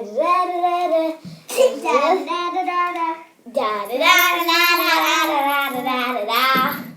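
A young girl singing a tune on "da" syllables in three phrases. The last phrase, from about three and a half seconds in, has long held notes that waver in pitch.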